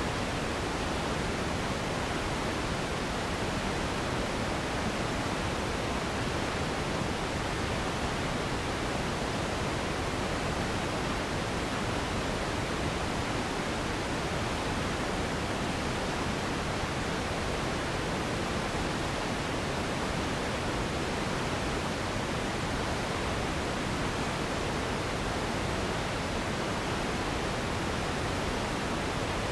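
Steady sleep noise, a continuous even hiss with slightly less energy in the highs, unchanging throughout.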